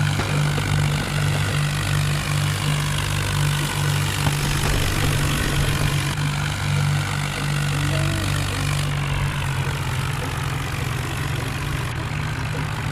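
Tractor engine running steadily, with an even low throb.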